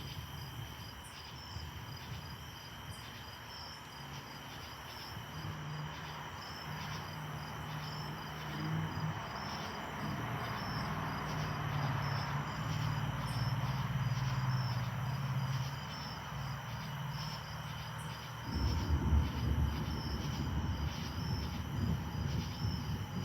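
Insects chirping steadily in a regular high-pitched pulse. A vehicle's engine hum and tyre noise swell past in the middle. About three-quarters of the way through, an uneven low rumble sets in suddenly.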